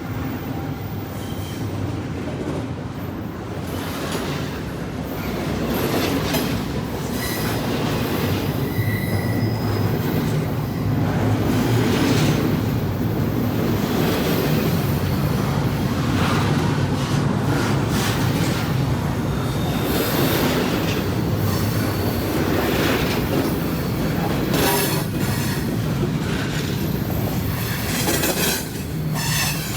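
Freight train cars rolling past on steel rails: a steady heavy rumble with wheels clattering over the rail joints and a few short, high wheel squeals.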